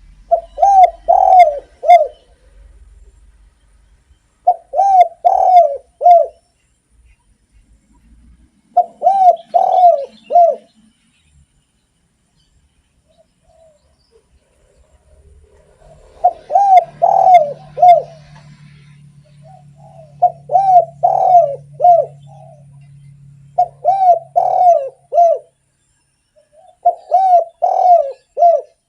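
Derkuku (spotted dove) cooing: seven phrases of four or five quick coos, each phrase about two seconds long, with pauses of a few seconds between them and a longer pause midway. A faint low hum runs under the later phrases.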